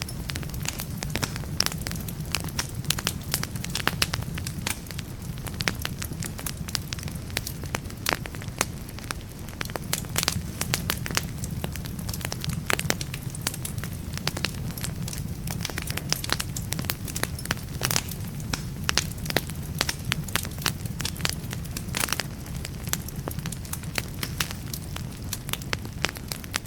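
Wood fire burning in a fireplace: a steady low rumble of flames with frequent, irregular crackles and pops of burning logs.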